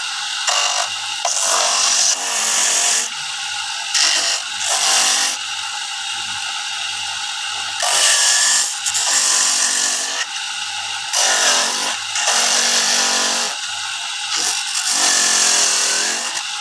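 Electric coconut-grating machine running steadily, grating coconut flesh. Louder rasping bursts come every second or two as the coconut is pressed against the spinning grater.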